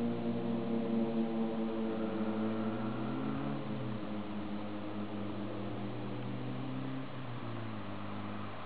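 Skoda Felicia 1.6 four-cylinder petrol engine running, heard at its exhaust. It is held at slightly raised revs, the revs fall back twice, a few seconds in and again near the end, and it settles into a steady idle.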